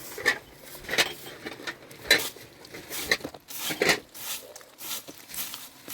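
Irregular scrapes and knocks of hand tools working soil and plaster, about one stroke a second.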